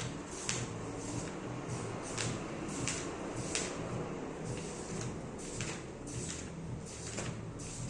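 Pages of a large book being turned one after another, a quick papery swish about once or twice a second, over a steady low hum.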